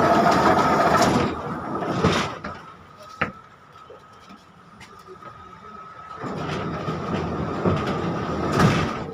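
Ride noise inside a 71-605 (KTM-5M3) tram with DK-259 traction motors: wheels and running gear loud at first, falling away after about two seconds with a sharp click, then building up again about six seconds in. A steady high whine runs underneath.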